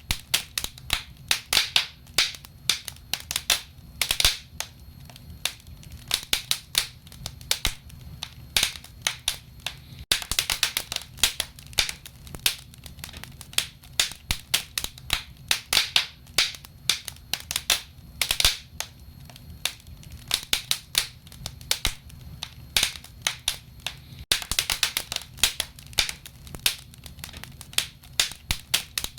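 Wood fire crackling in a fireplace: rapid, irregular sharp pops and snaps over a faint steady low rumble.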